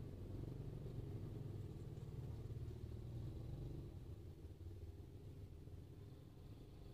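Car engine idling, a steady low rumble heard from inside the cabin, with motor scooters passing faintly outside.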